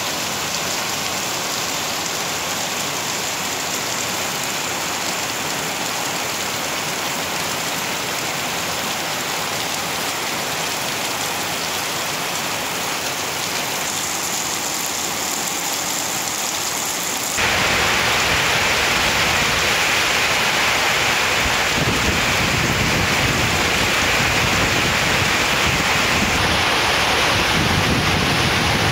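Heavy rain pouring down on grass, leaves and paving, a steady dense hiss that jumps suddenly louder and fuller about two-thirds of the way through.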